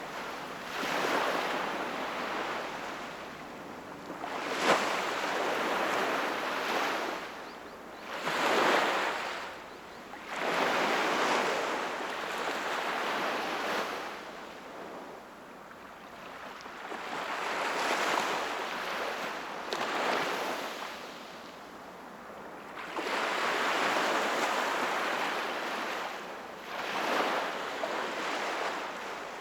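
Sea waves breaking and washing up the shore, swelling and ebbing in surges every few seconds, with a sharper crash about five seconds in.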